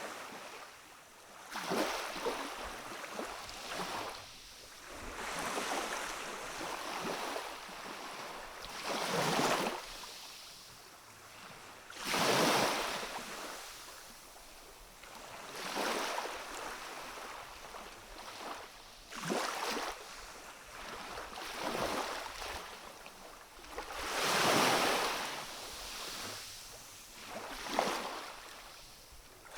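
Gentle waves of a calm sea washing onto a rocky shore. Each wash swells and fades every few seconds, and the biggest come about twelve and twenty-four seconds in.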